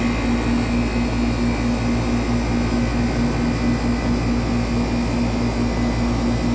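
1995 Tempstar central air conditioner's outdoor condenser unit running steadily: the Copeland reciprocating compressor hums low with a regular throb, under the even rush of the condenser fan.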